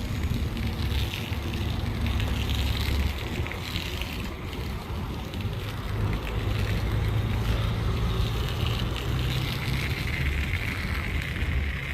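Self-serve car wash spray wand applying triple-foam conditioner to a car: a steady hiss of spray over a low hum.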